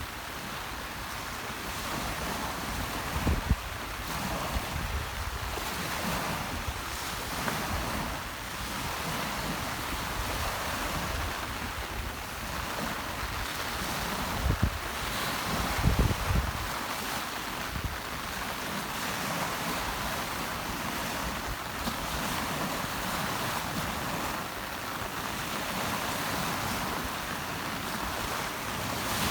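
Rough sea surf washing steadily onto the shore in wind and rain, with a few gusts of wind buffeting the microphone as low rumbles.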